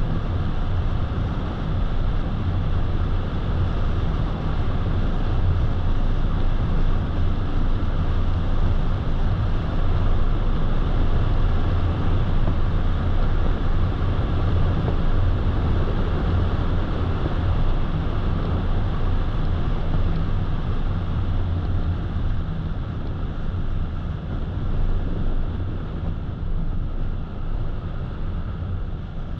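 Car driving on the road: steady tyre and road noise with a low rumble, easing slightly near the end.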